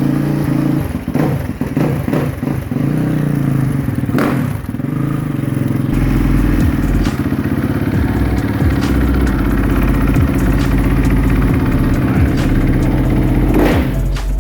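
2018 Kawasaki KX450 dirt bike's single-cylinder four-stroke engine running, its revs rising and falling a few times in the first four seconds, then settling into a steady idle. The idle is held up by the idle-adjust knob, not the choke.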